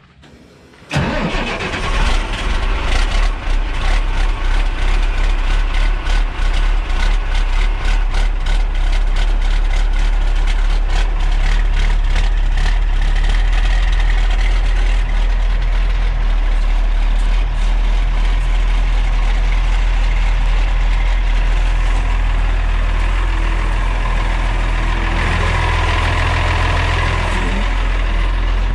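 Ford grain truck's turbocharged diesel engine catching about a second in on a cold start, running rough and uneven at first, then settling into a steadier idle. The low engine note swells briefly near the end.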